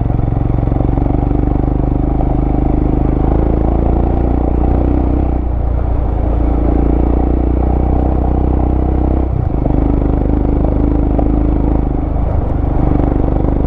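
Vehicle engine running steadily under load on a rough off-road trail, with some rattling, and a brief dip in the engine note about nine seconds in.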